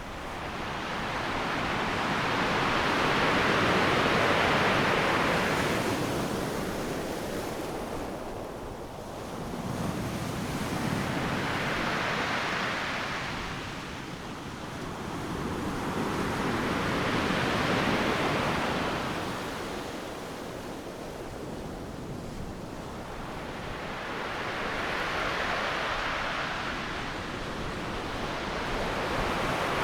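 Ocean surf breaking on a beach: a continuous rushing wash that swells as each wave crashes and fades as it runs out. About four waves break, one every six to eight seconds.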